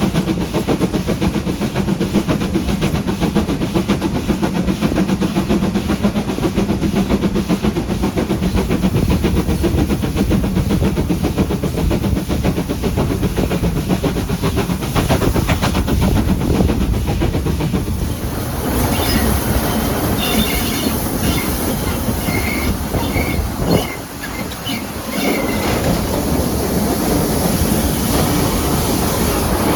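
Train running along the line: a steady rumble with the clickety-clack of wheels over rail joints. About two-thirds of the way through, the sound changes to a brighter hiss with faint, scattered high squeals from the wheels.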